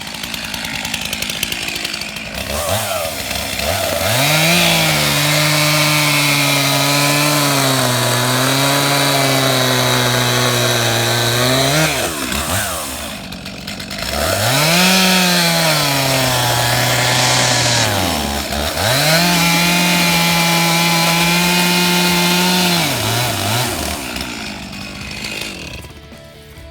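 Stihl two-stroke chainsaw revved to full throttle three times, dropping back toward idle between runs. During the first run the pitch sags and wavers, as when the chain bites into wood. The saw winds down near the end.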